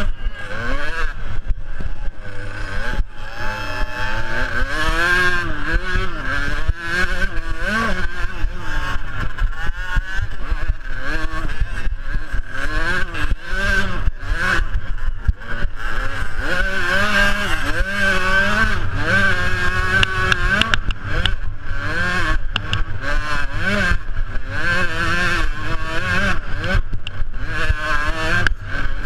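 Small two-stroke youth motocross bike engines revving hard and easing off over and over as the bikes race around the track, their pitch rising and falling constantly, with more than one engine heard at once.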